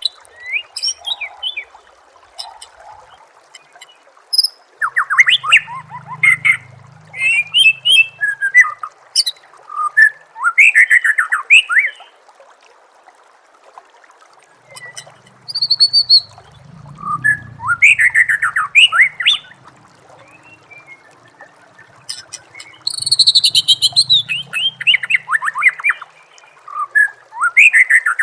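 White-rumped shama (murai batu) singing: bursts of rapid, varied whistled phrases with quick rising and falling sweeps, separated by pauses of a second or more.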